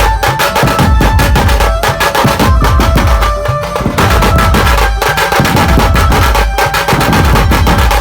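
Dhumal band music: a sustained keyboard melody over fast, dense drumming with heavy bass.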